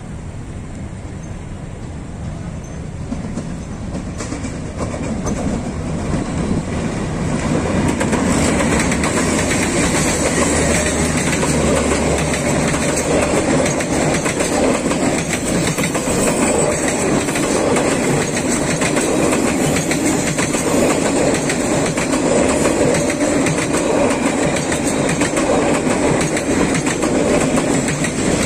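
Passenger train passing close by. The sound grows louder over the first eight seconds or so as it approaches, then the coaches' wheels run loud and steady on the rails.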